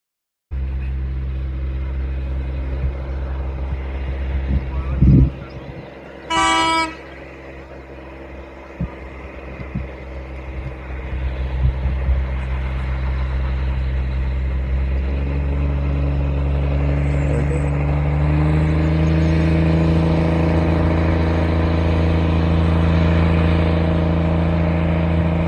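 A train's engine running steadily, with a single short toot about six seconds in. Later the engine note steps up and grows louder, as when the train pulls away.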